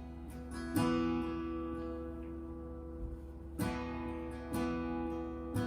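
Acoustic guitar strumming a few chords and letting them ring, the instrumental lead-in to a worship song.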